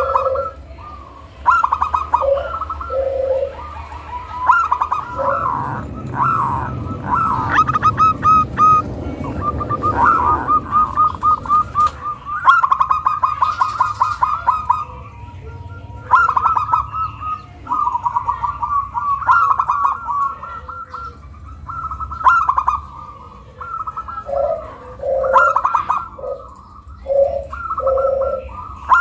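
Zebra dove cooing: runs of quick staccato notes in a rapid trill, alternating with lower, rounder coos, repeated over and over.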